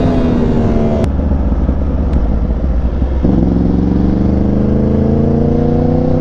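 Yamaha R1's inline-four engine heard from the rider's seat: the revs fall as the bike slows, with a sharp click about a second in, then from about three seconds in the engine note climbs steadily as the bike accelerates.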